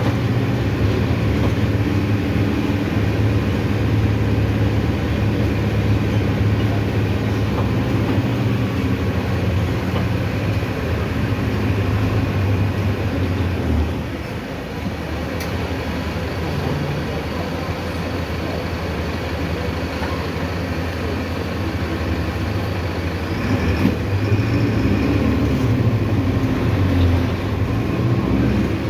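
Mercedes-Benz OF-1519 city bus's diesel engine running as the bus drives, with road and body noise. The engine eases off about halfway through and pulls harder again near the end.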